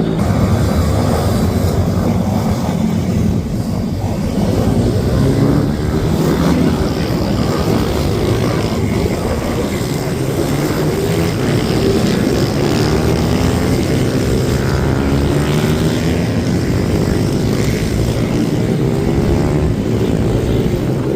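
Several small minibike engines running together on track, their overlapping notes rising and falling as the riders rev up and back off.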